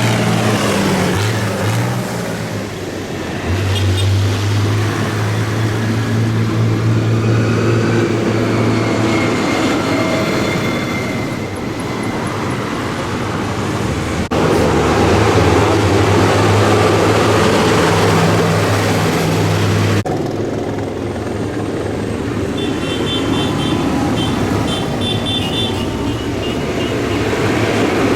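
Tractor engines running as a procession of tractors drives past, one engine note giving way to the next. A pulsing high beeping sounds briefly near the end.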